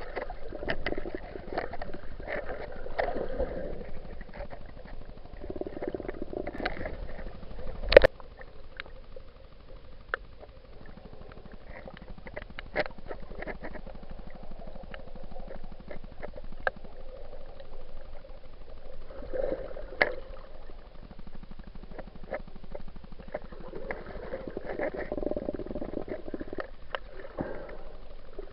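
Water sloshing and gurgling, heard muffled through an action camera's waterproof housing, with scattered small clicks and one sharp knock about eight seconds in.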